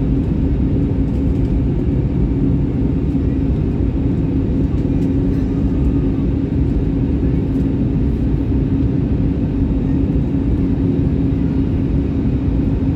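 Steady low drone of an airliner's engines and airflow heard inside the passenger cabin, with a steady hum running through it.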